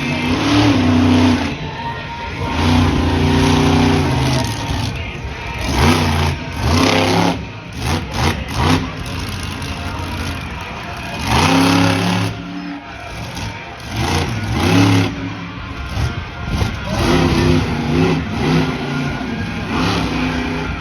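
Monster truck's supercharged V8 revving hard in repeated bursts, its pitch rising and falling as the throttle opens and closes. About eight seconds in there is a quick series of sharp bangs.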